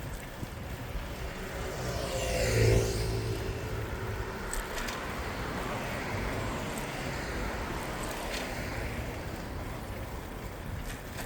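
A motor vehicle passes close by, swelling to its loudest about two and a half seconds in with a falling pitch as it goes past. Steady city traffic noise continues underneath.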